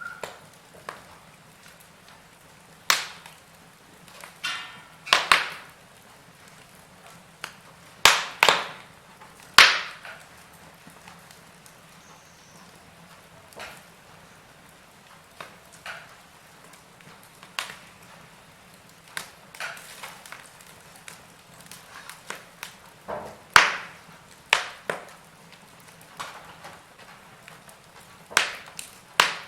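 Wood fire in a fireplace crackling: irregular sharp pops and snaps, a few much louder than the rest, over a faint steady hiss.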